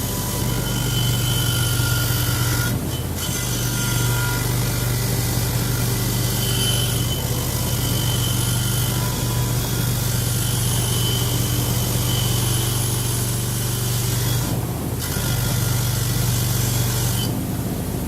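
A power tool stripping old powder coat and rust off an aluminum winch housing: a steady motor hum with an abrasive hiss. It breaks off briefly about three seconds in, again near fifteen seconds and near the end.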